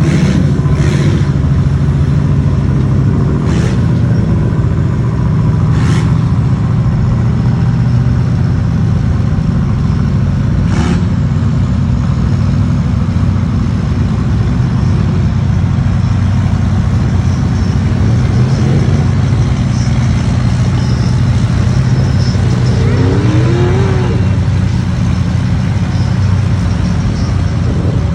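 Mud truck engine running loudly and steadily as the truck works through mud, with a few sharp knocks in the first eleven seconds.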